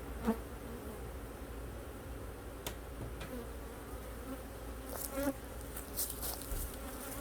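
Honeybees buzzing in a steady hum around an opened hive, with a few light clicks and a run of crisp rustles about five seconds in.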